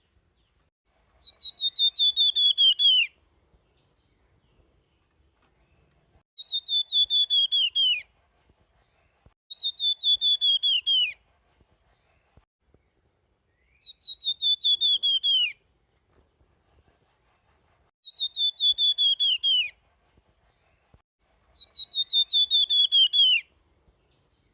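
Flamboyan songbird singing its fluty 'nyuling' whistle: six phrases, each a quick run of about ten whistled notes sliding down in pitch, repeated every three to four seconds.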